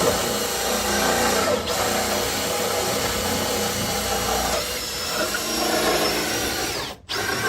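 A power drill running steadily, with a faint high whine that rises and falls, cutting off abruptly near the end.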